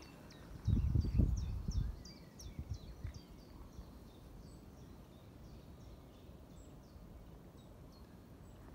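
A small bird singing a quick run of short, falling, high chirps, about four a second, which fades out about halfway through. Near the start a low muffled rumble is the loudest sound, and after that only a faint steady outdoor hush remains.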